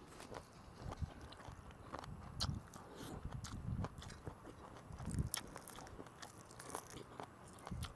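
Close-miked chewing and mouth sounds of a man eating rice and meat with his fingers: irregular clicks and soft smacks.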